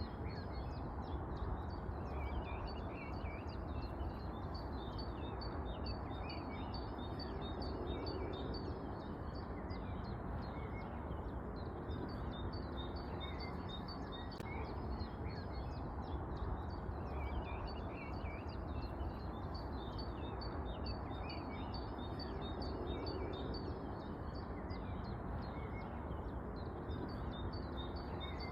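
Small birds chirping with many short, high calls in a continuous stream, over a steady low background hum and noise.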